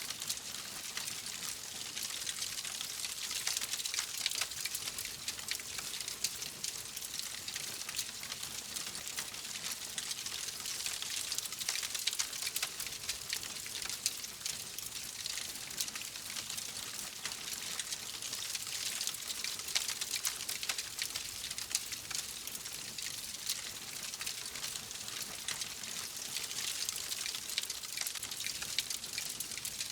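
Fire crackling in a fireplace: a steady hiss dotted with many small, irregular pops and snaps.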